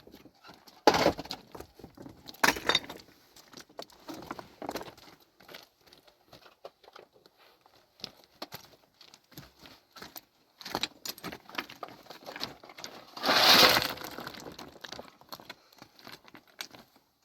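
Irregular clinks, knocks and scrapes of hard objects being handled, with a louder scraping rush about thirteen seconds in.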